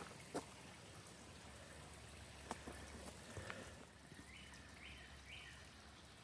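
Faint trickle of water at a small creek waterfall carrying little flow, with a few light clicks.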